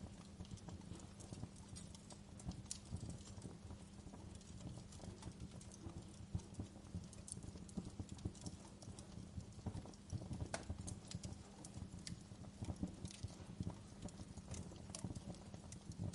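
Wood fire burning in a fireplace: irregular sharp crackles and pops of the logs over a low steady rumble of the flames.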